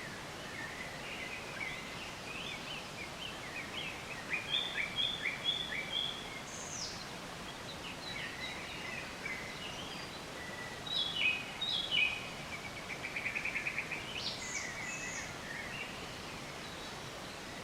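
Several songbirds chirping and trilling over a steady background hiss, with a run of quick notes about halfway through and a fast trill a little later.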